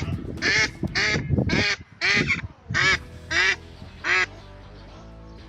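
Ducks quacking loudly, about eight quacks in a row at roughly two a second, stopping about four seconds in; background music continues underneath and on after them.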